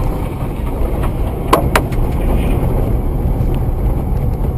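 A car driving, heard from inside: steady low road and engine noise, with two sharp clicks close together about a second and a half in.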